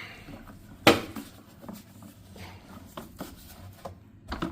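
Handling noises from the vacuumed debris and its bag: one sharp knock about a second in, then scattered light clicks and rustles.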